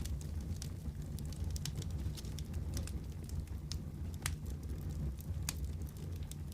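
Wood fire crackling in a fireplace: a steady low rumble of flame with irregular sharp pops and snaps, a few louder ones scattered through.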